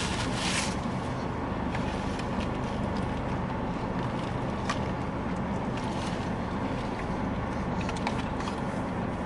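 Steady low hum inside a car's cabin, with a few faint clicks and rustles.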